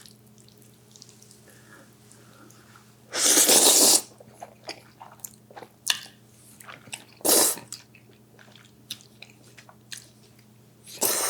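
Jjajangmyeon noodles being slurped: one long, loud slurp about three seconds in, a shorter one about seven seconds in and another near the end, with soft chewing and small clicks in between.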